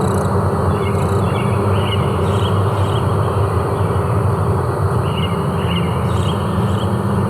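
Forest ambience: a steady low noise with a constant low hum under it, and short high chirps coming in small runs, once about two seconds in and again about five seconds in.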